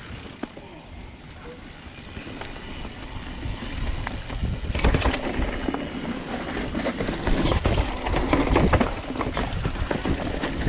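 Mountain bike descending a rocky trail, with wind rumbling on the microphone. From about halfway through, the tyres, chain and frame rattle and clatter over the rocks, louder and busier.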